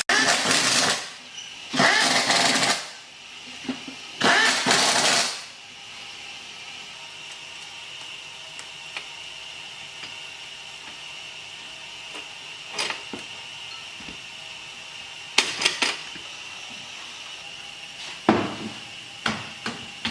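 Three bursts of workshop power-tool noise, each about a second long, in the first five seconds. After them comes a quieter stretch with a faint steady whine and a few sharp clicks, some in quick clusters, typical of engine parts being handled.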